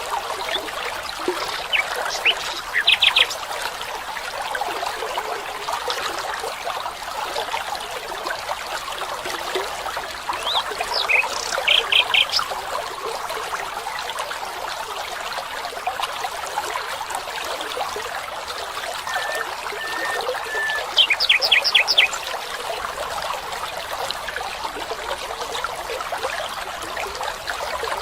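Small stream trickling steadily, with a bird calling three times, about nine seconds apart, in short rapid bursts of several high notes.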